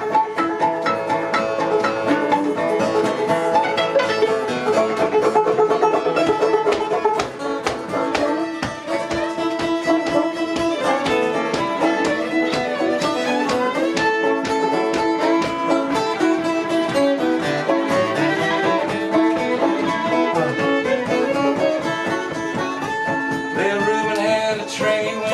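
Acoustic string band playing an instrumental break, with fiddle, banjo and guitar.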